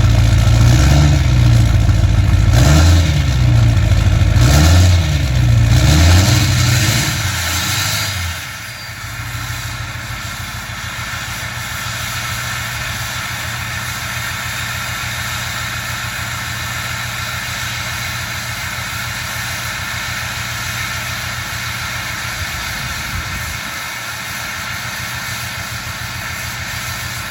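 Ford 6.0 Power Stroke V8 turbo-diesel engine revved up and back down about four times, then dropping to a steady idle about eight seconds in. The owner says the truck has a slight misfire.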